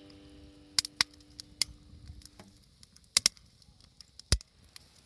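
Wood fire in a small fire stand crackling, with irregular sharp pops and cracks, one deeper and louder about four seconds in. The last note of background music fades out over the first couple of seconds.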